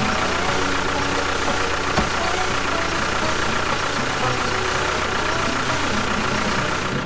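An engine running steadily: a dense, even noise with a thin steady whine and a low hum, and a single brief knock about two seconds in.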